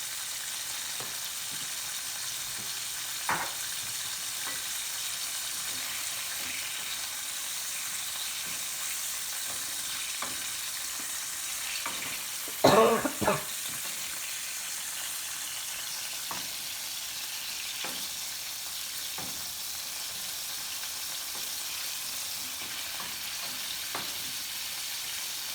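Chicken gizzards frying in chicken fat in a nonstick pan: a steady sizzle, with a few short knocks and scrapes of stirring, the loudest a quick cluster about halfway through.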